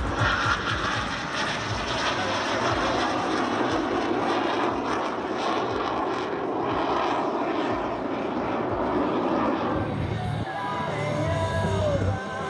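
Aircraft engine noise from a display aircraft flying by, a loud even rush. It gives way to music about ten seconds in.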